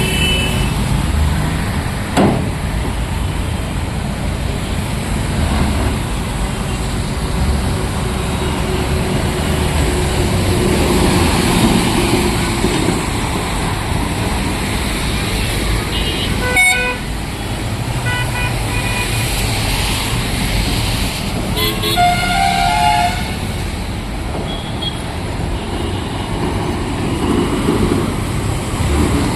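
Road traffic with a vehicle engine running steadily, and horns honking several times in the second half.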